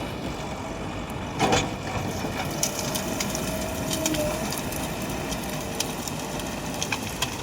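JCB 3DX backhoe loader's diesel engine running steadily at work, with a loud crunching knock about a second and a half in and scattered sharp clicks.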